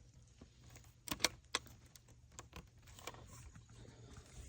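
Keys jingling, with a few sharp clicks as the key is turned in a folding electric bike's key switch. There is a quick cluster of clicks about a second in and another click around three seconds in.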